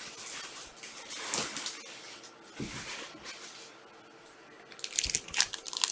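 Soft rustling as trading card packaging is handled, then from about five seconds in, louder crinkling of plastic wrapping.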